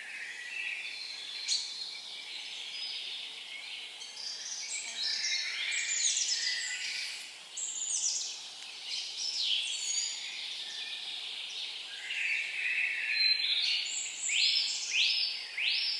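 Several songbirds singing at once, overlapping chirps and trills. Near the end one bird repeats a falling note about twice a second.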